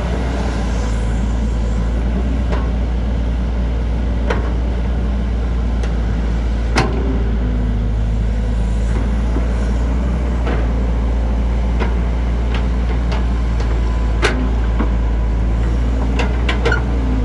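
JCB JS205 excavator's diesel engine running steadily under load as it digs, with sharp metallic clanks now and then, a few of them close together near the end.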